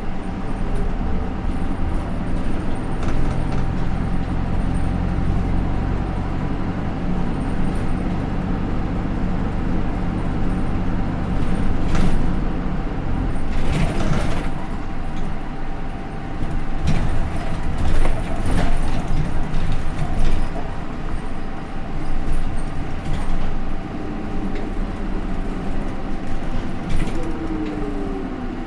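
Cabin running sound of a Hino Rainbow II bus with its Isuzu 4HK1-TCH four-cylinder turbo diesel and Aisin automatic gearbox. The engine pulls strongly for the first half, then eases, with several knocks and rattles from the body. A falling whine near the end as the bus slows.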